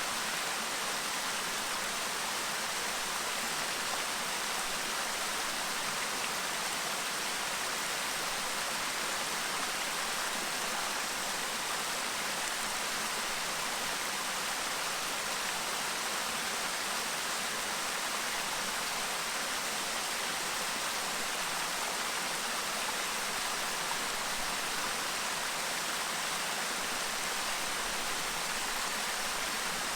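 A clear stream babbling, a steady rush of flowing water with no change throughout.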